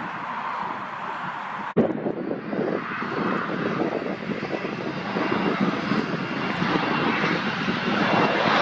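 Airliner engines running at an airport, a steady noisy roar that cuts out for an instant just under two seconds in and then slowly grows louder.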